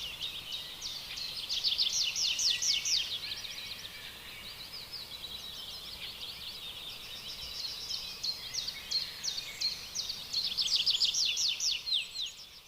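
Baby birds begging with rapid runs of high, thin chirps, loudest in bursts about two seconds in and again near the end.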